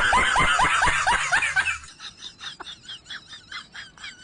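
Laughter in quick repeated bursts, loud for about the first two seconds, then quieter and trailing off before it cuts out near the end.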